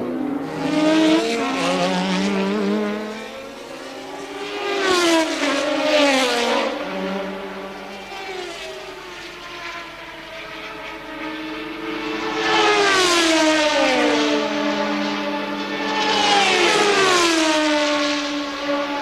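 1983 Formula One cars racing past one after another at high revs. Each engine note falls in pitch as the car goes by, with the loudest passes about five seconds in, near the middle and again toward the end.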